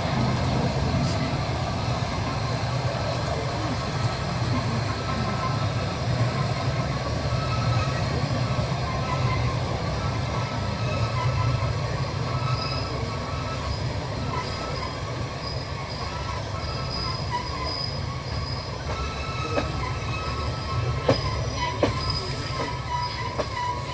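Train wheels running on the rails with a steady low rumble. Thin, high squealing tones come and go from about halfway. A few sharp clacks sound near the end.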